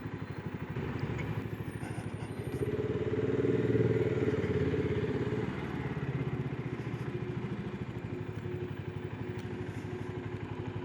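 Single-cylinder motorcycle engine running at low speed in traffic, with a steady, fast pulsing beat. It grows louder for a few seconds near the middle.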